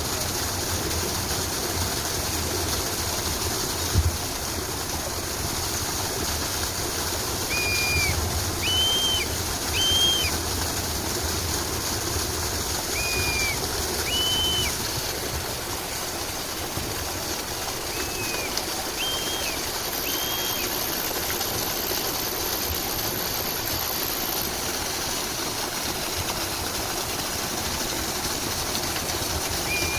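Birds giving short whistled chirps, singly or in quick pairs, every second or two over a steady background of running water.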